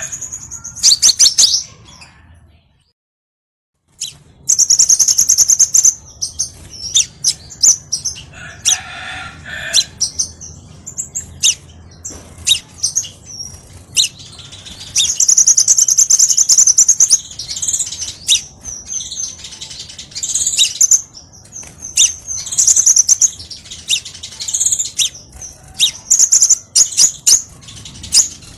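Crimson sunbird song: rapid, high-pitched chirps and trills, repeated over and over. There is a sudden gap of silence about two and a half seconds in, lasting about a second and a half.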